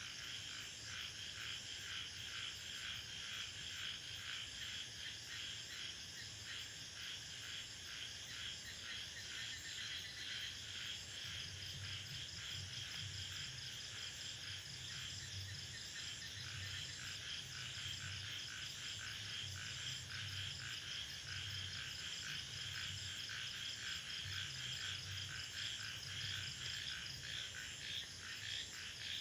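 Rainforest chorus of crickets and other insects: a dense, fast-pulsing trill that goes on without a break, with a low, irregular throbbing underneath.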